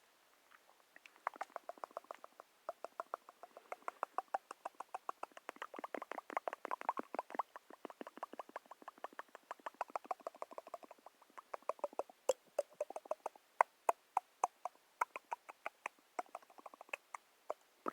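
A rapid run of small, crisp clicks, several a second, made as an ASMR trigger sound. They grow sparser and sharper in the last few seconds.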